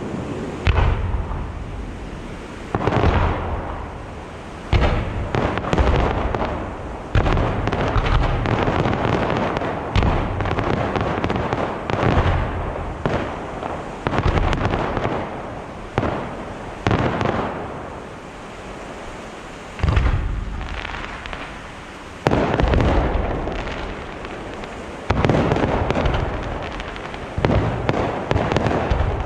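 Aerial fireworks shells bursting one after another, a sudden bang every one to three seconds, each trailing off in a long rumble.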